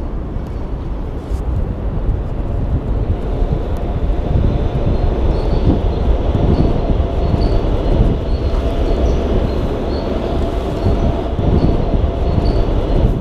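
A train passing over a nearby bridge: a steady low rumble that builds about two seconds in, with a steady whine running through it and faint ticking about twice a second.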